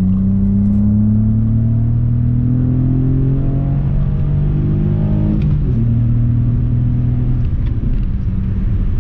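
Acura's J35 3.5-litre SOHC V6 with a full aftermarket exhaust pulling hard in third gear, heard from inside the cabin. The engine note rises steadily for about five seconds, drops sharply about five and a half seconds in, holds a lower note, then fades near the end.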